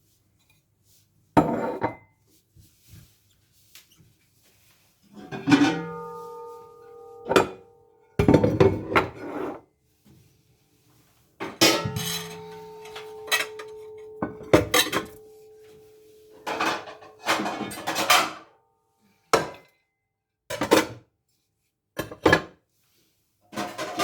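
Dishes, pots and cutlery being handled by hand, knocking and clattering in separate bursts. After two of the knocks a metal pot or bowl rings on with a steady tone for several seconds.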